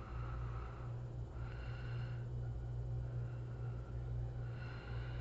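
A person breathing close to the microphone, several soft breaths a couple of seconds apart, over a steady low electrical hum.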